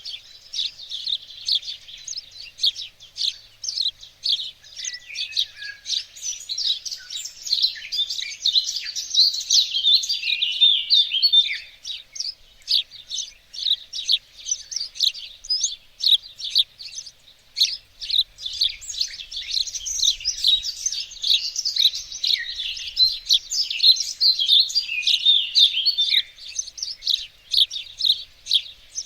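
Several songbirds singing and chirping at once: a dense, continuous chorus of short high chirps and trills.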